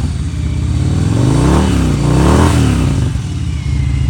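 Victory V92C motorcycle's 92-cubic-inch V-twin running, still cold from a start after a week sitting in freezing weather, with the choke off. About a second in, the throttle is blipped twice, the revs rising and falling each time, before it settles back to a steady idle.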